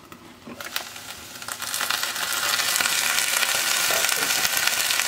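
Chopped okra frying in a pan, sizzling. The sizzle is faint at first with a few light clicks, then swells loud about a second and a half in as the glass lid is lifted off, and stays steady.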